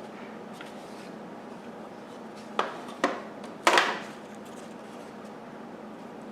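Parts of a new upright vacuum cleaner being handled during assembly: three sharp knocks or clatters about halfway through, the last the loudest, over a steady low hum.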